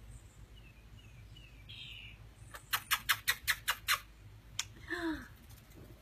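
A fledgling bird giving a quick run of about eight sharp chirps, several a second, then one more chirp a moment later.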